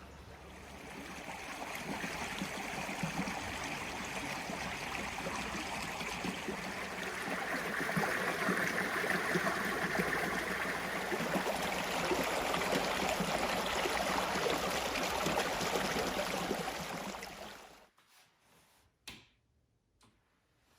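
A shallow stream babbling over stones, a steady rush of splashing water that swells in over the first couple of seconds and cuts off abruptly about eighteen seconds in. A single short click follows in the quiet.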